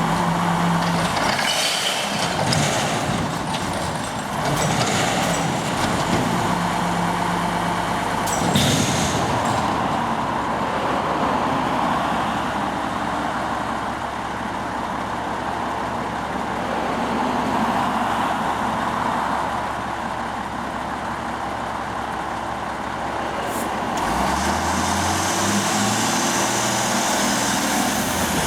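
Recycling truck's engine running, with a brief hiss of air about eight and a half seconds in and the engine speeding up near the end.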